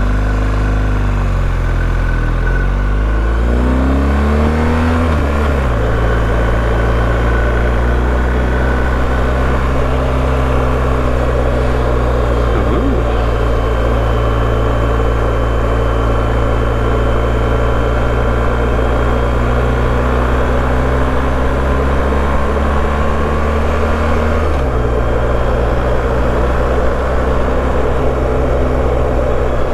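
BMW R1250GS boxer-twin motorcycle engine, recorded on board while riding: it accelerates with the engine note rising over the first five seconds or so, then holds a steady cruise with wind rush. The engine note dips briefly about 25 seconds in, then settles steady again.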